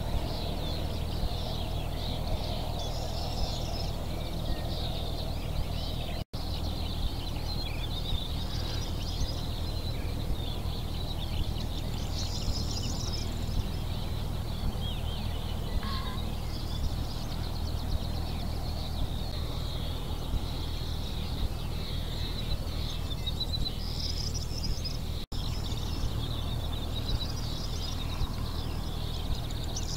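Several songbirds singing and chirping over a steady low rumble of outdoor background noise. The sound cuts out for an instant twice.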